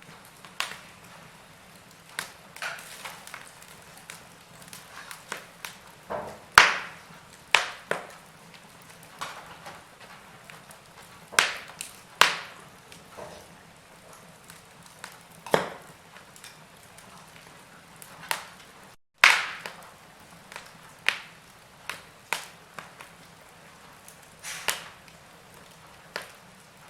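Wood fire crackling in a fireplace: irregular sharp pops and snaps, a few much louder than the rest, over a soft steady hiss. The sound drops out for an instant about two-thirds through, just before one of the loudest pops.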